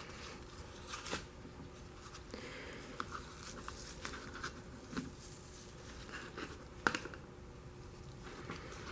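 Quiet handling noises of gloved hands working with filter paper: scattered small clicks and short rustles, with a sharper click about seven seconds in.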